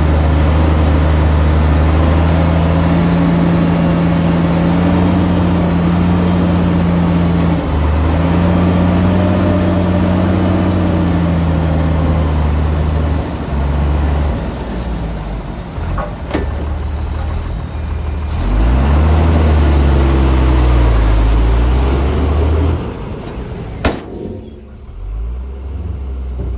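Heavy diesel engine of earthmoving machinery running hard under load, its pitch dropping and rising several times, then easing back to a quieter, lower run near the end. A single sharp click or knock comes shortly before the end.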